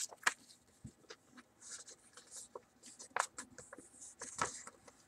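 Sheet of paper being folded and creased by hand: faint scattered rustles and small clicks, with a few short scraping swipes.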